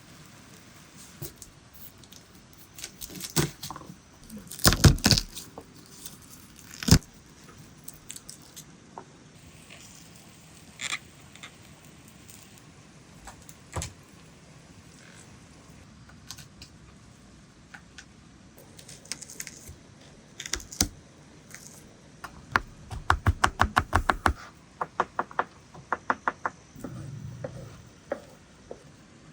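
Cooking utensils clinking and knocking in scattered, irregular strikes, with a quick, even run of taps at about seven a second near the end.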